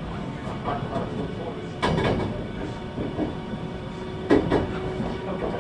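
Running noise inside a 521-series electric train car: a steady rumble of wheels on rail, with a sharp knock about two seconds in and another near the end.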